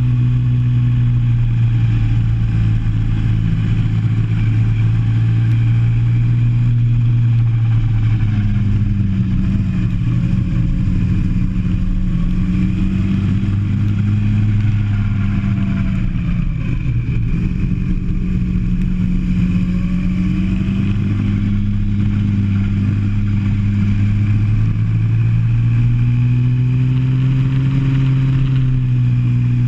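Go-kart engine heard from on board, running hard with its pitch sagging and climbing again a few times as the kart slows for corners and accelerates out of them.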